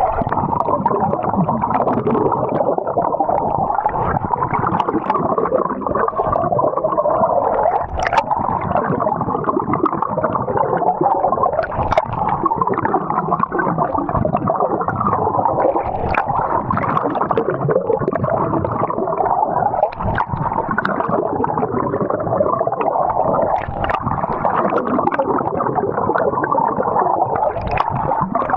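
Water gurgling and sloshing, heard muffled and steady with scattered small clicks, as from a microphone in or against the water.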